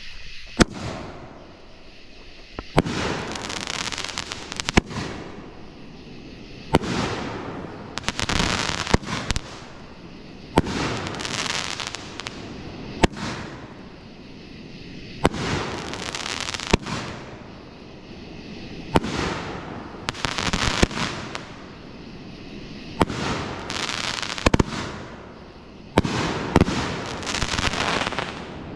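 A 500-gram consumer fireworks cake of 2-inch shots firing in sequence. Each shot is a sharp bang followed by a crackling hiss lasting a second or two, repeating about every two to three seconds.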